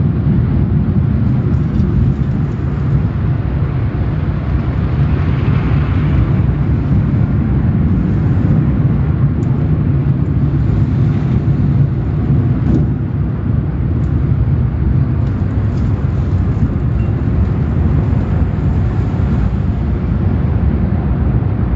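Steady, loud low rumble of a car wash heard from inside the car, with a swell of hissing spray about five seconds in.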